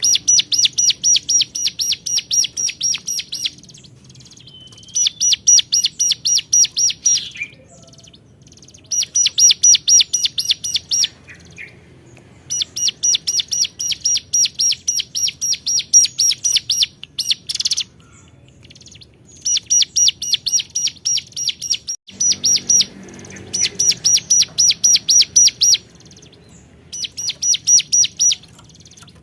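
Ciblek gunung (mountain prinia) singing loudly in repeated bouts of fast, high chirps, about five a second. Each bout lasts two to four seconds, with short pauses between. It is a challenge call to a rival bird.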